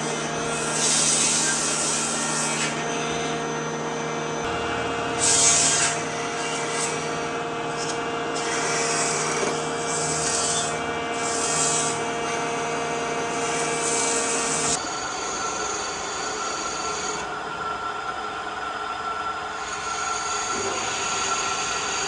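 Electric power tool running steadily and working wood, with repeated rasping bursts every second or two as it bites into the surface. Its hum changes pitch about two-thirds of the way through.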